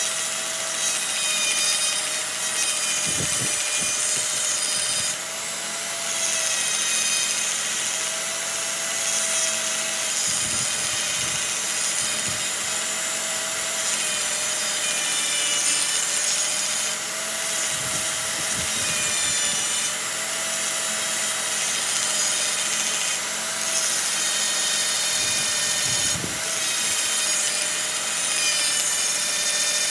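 A power tool working metal: a steady motor tone under a high, ringing screech of metal being cut or ground, easing off briefly every five or six seconds.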